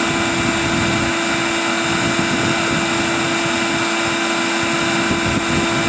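Bee vacuum running steadily as it sucks swarming honeybees off branches: a loud, even motor rush with a steady hum.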